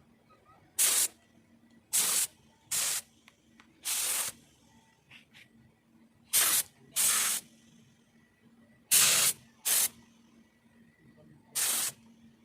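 Compressed-air spray gun fed by an oil-free air compressor, its trigger pulled in short hissing bursts, nine in all with pauses between.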